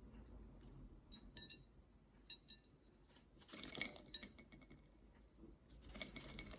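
Faint scattered clicks and taps of walnut shells being handled on a tabletop, with a louder cluster of clatter about three and a half seconds in.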